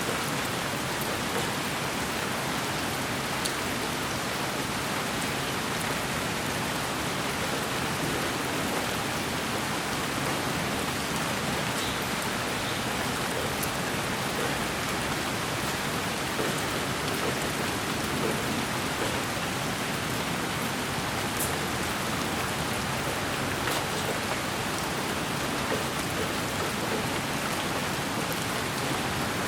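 Steady white noise for lulling a baby to sleep: an even, rain-like hiss with a few faint scattered ticks.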